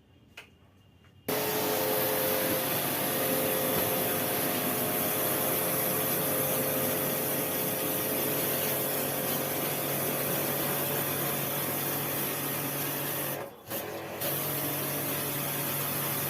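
A motor-driven machine switches on about a second in and runs steadily with a loud hiss over a low hum. It cuts out for a moment near the end and starts again.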